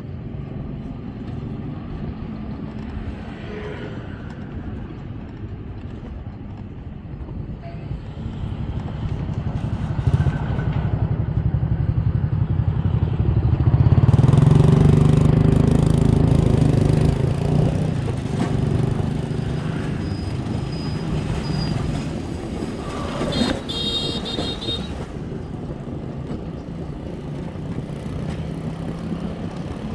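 Road traffic with motorbike and other engines running. One engine swells loudest near the middle and then fades, and a brief high-pitched tone sounds a little past two-thirds of the way in.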